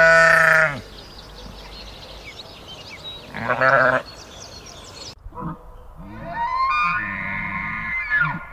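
Two loud bleats from a farm animal, a long one at the start and a shorter one about three and a half seconds in. A little after the second, the sound changes abruptly to a different animal's higher, wavering calls.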